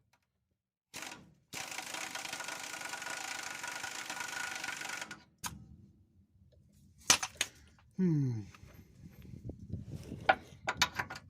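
A power wrench runs for about three and a half seconds, driving in a front torsion-bar adjuster bolt on a 1992 Chevy 4x4 pickup. It is followed by scattered metallic clicks and clinks of the socket and tools.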